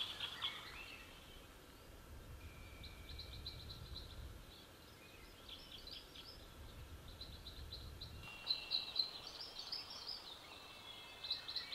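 Faint birdsong: small birds giving repeated short chirping phrases, with an occasional thin held whistle. Under it runs a soft low rumble that drops away about eight seconds in.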